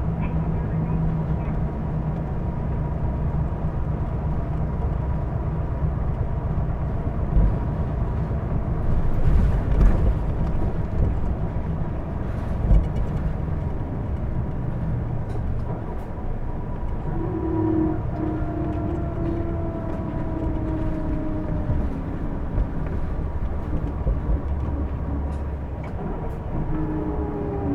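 Interior running sound of a Hino Blue Ribbon II diesel city bus: a steady drivetrain rumble with a thin constant whine over it. About two-thirds through, and again near the end, a falling whine sounds. The bus is known for an abnormal running noise.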